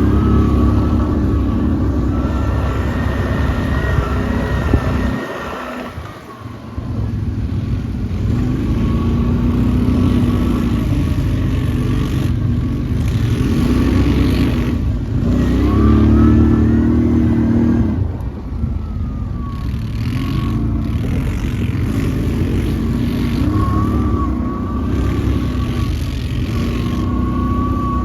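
ATV engine running under load, revving up and easing off again and again, with a thin high whine over it; it drops back briefly about five seconds in.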